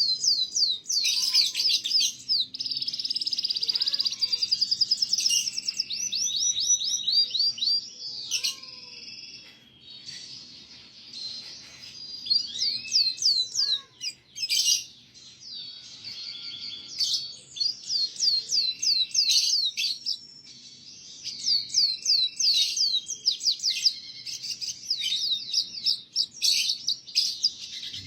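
Domestic canary singing a long, continuous song of rapid trills and rolling repeated phrases, high-pitched, with a few softer lower whistled notes in between.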